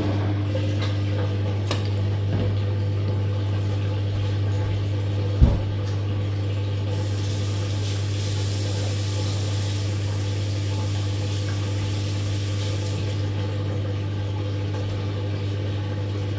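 Drain pump of a Living & Co 5.5 kg top-loading washing machine starting suddenly and running with a steady hum as the wash water is pumped out at the end of the wash. There is a single knock about five seconds in, and a hiss of rushing water through the middle.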